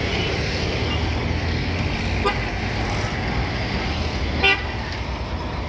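Steady road traffic noise, with one short, sharp vehicle horn toot about four and a half seconds in and a fainter brief toot a little after two seconds.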